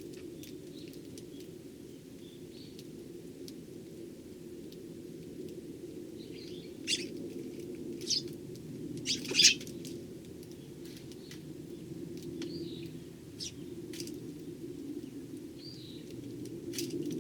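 Eurasian tree sparrows chirping: scattered short chirps, with a few louder ones about seven to ten seconds in, over a steady low hum.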